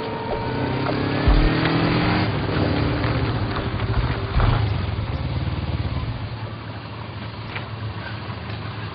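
A vehicle engine revving up and pulling away, rising in pitch over the first couple of seconds, then running steadier and slowly fading.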